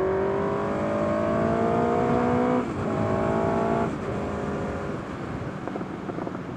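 Motorcycle engine accelerating hard, its pitch climbing, then dropping at an upshift about two and a half seconds in and climbing again. A little before four seconds in the throttle is rolled off and the engine settles lower, with wind rushing past throughout.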